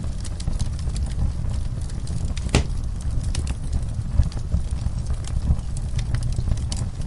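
Wood fire in a fireplace crackling, with scattered sharp pops over a steady low rumble. One louder snap comes about two and a half seconds in.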